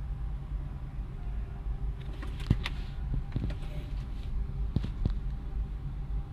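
Steady low rumble of a car heard from inside the cabin, with a few short knocks and clicks in the middle.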